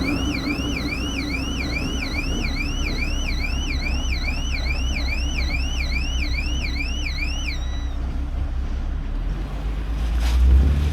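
An electronic warbling alarm, about three pitch sweeps a second, that stops about seven and a half seconds in, over a steady low engine rumble that grows louder near the end.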